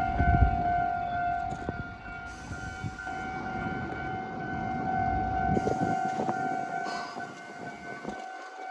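Level-crossing warning signal ringing steadily at a railway and tram diamond crossing. Underneath it a train rumbles and knocks over the crossing, fading out about six seconds in.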